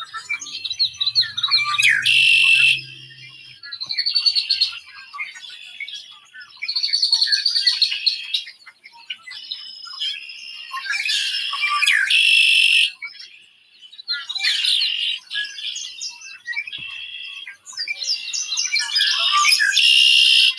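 A songbird singing a long, varied run of quick chirping phrases, each lasting a second or two, with short pauses between them.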